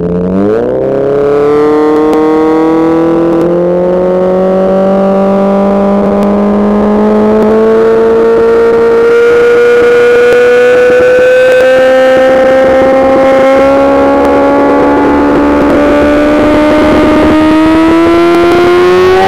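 Kawasaki Z800's inline-four engine revved up sharply, then held at high revs for a long stretch, very loud, its pitch climbing slowly and steadily.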